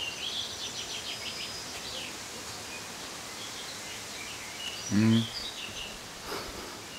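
Small birds chirping and trilling over a steady outdoor background hiss. About five seconds in there is a brief, low, voice-like sound that is louder than the rest.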